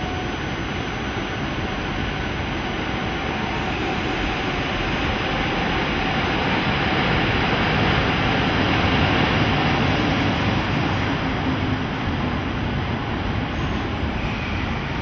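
EF65 electric locomotive rolling slowly into the platform hauling blue sleeper coaches: steady motor and blower noise with wheels on rail, growing louder as the locomotive passes about halfway through, then the coaches rolling by.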